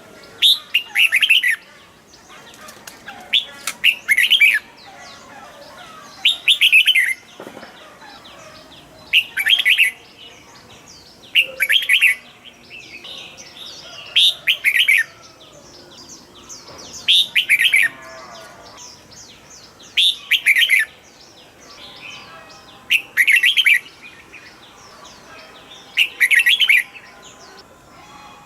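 Red-whiskered bulbul singing: short, bright, warbling phrases repeated every two to three seconds.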